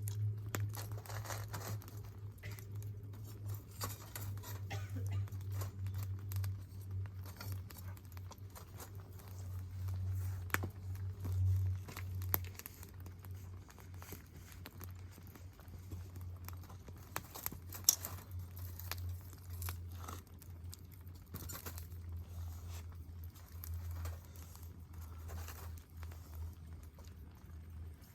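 Wood campfire crackling: scattered sharp pops and snaps, one sharper crack a little past the middle, over a steady low hum.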